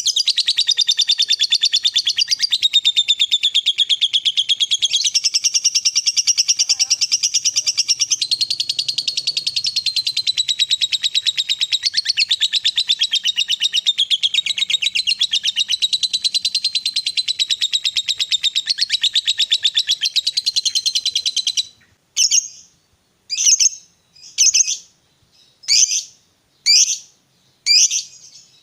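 Lovebird singing a long unbroken 'ngekek' chatter, a fast rattling run of shrill notes held for about twenty seconds. Near the end it breaks off into short separate calls, about one a second.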